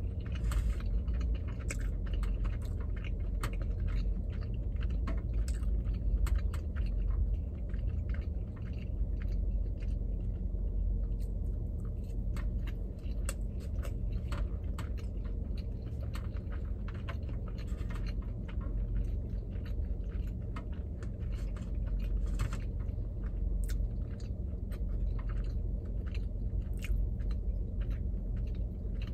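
Close-miked chewing of sushi with the mouth closed: a steady run of small wet clicks from the mouth, over a steady low hum.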